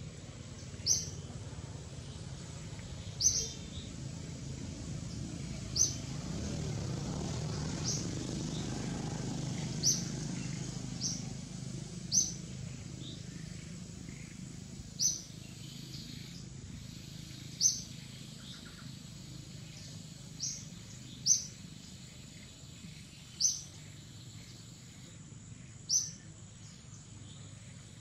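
A bird repeating one short, high chirp about every two and a half seconds, over a low outdoor rumble that swells and then eases off.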